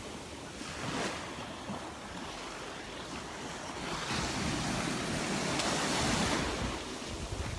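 Surf breaking and washing up a sandy beach, with wind buffeting the microphone. The rush of water swells about four seconds in and eases off near the end.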